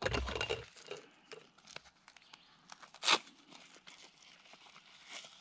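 Packaging being handled and opened: rustling and crinkling with small clicks, and one short, sharp sound about three seconds in.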